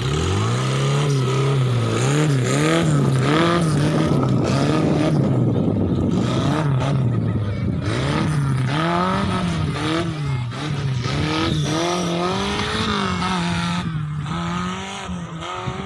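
Off-road 4x4's engine revving hard as it launches on a start countdown, then running the course with the revs rising and falling again and again as the throttle is worked.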